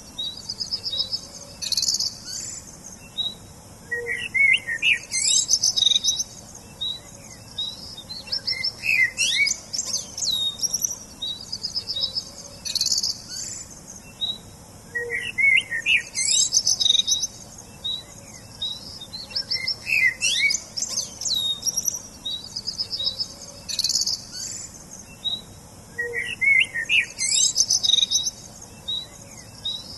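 Songbirds chirping and singing: quick, high-pitched chirps and short trilled phrases, the same sequence of calls recurring about every eleven seconds.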